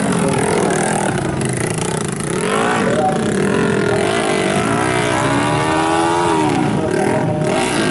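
Modified underbone motorcycle engines revving, their pitch rising and falling, with several engines overlapping.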